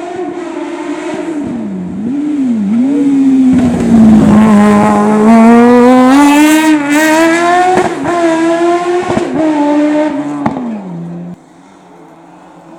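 Racing car's engine being driven hard through a slalom. The pitch dips twice early on as the driver lifts off, then rises in one long pull as the car comes closest and loudest. Two sharp cracks come during the pull, and the engine note falls and cuts off abruptly near the end.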